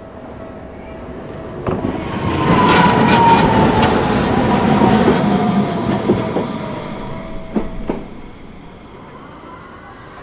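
Tokyu Setagaya Line tram-style train passing over a level crossing. The wheels click over rail joints, and a whine slowly falls in pitch. It is loudest in the middle seconds and fades away about eight seconds in.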